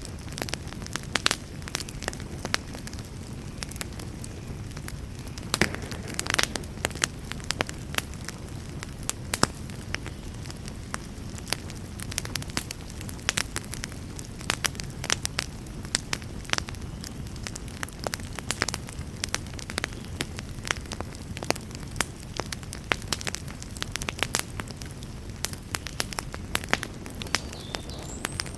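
Wood campfire crackling and popping, with frequent irregular sharp snaps, over a steady low rush.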